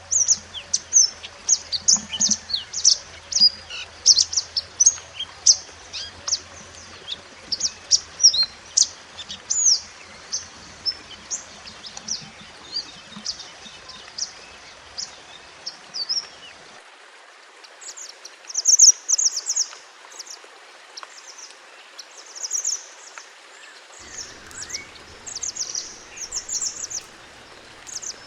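Mantenan gunung songbird singing: a fast run of high, sharp chirps and short trills that thins out about halfway, followed by a few louder chattering bursts.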